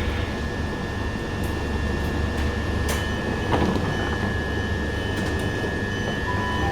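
Southern Class 377 Electrostar electric train: a steady rumble and hiss with a constant thin high whine, and a few faint clicks.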